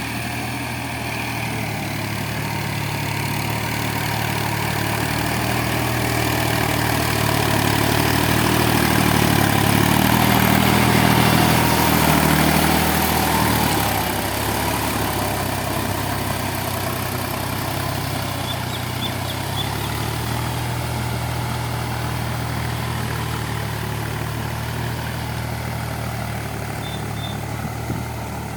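Massey Ferguson Dynatrack 254 DI tractor's diesel engine running steadily. It grows louder toward the middle, then drops and settles a little past halfway.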